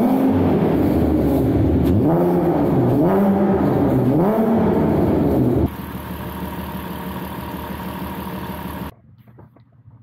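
Volkswagen R32 3.2-litre VR6 engine, naturally aspirated, being revved: the pitch climbs at the start, then three more blips rise and fall. About six seconds in it cuts to a quieter, steady idle, which stops abruptly shortly before the end.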